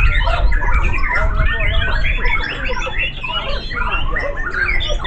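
Several white-rumped shamas singing at once: a dense tangle of quick, overlapping whistles and chirps, over a low rumble.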